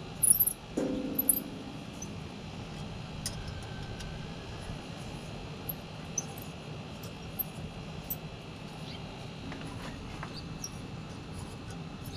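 Steady insect chirring with scattered light clicks and a short knock about a second in.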